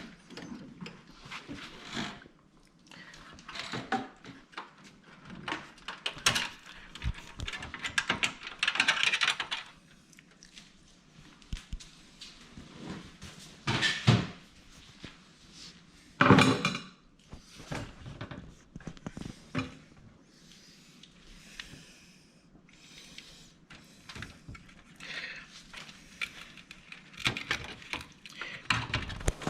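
Computer parts being handled and fitted: scattered clicks, knocks and rattles of plastic and metal pieces, with brief rustling, the loudest knocks about 14 and 16 seconds in.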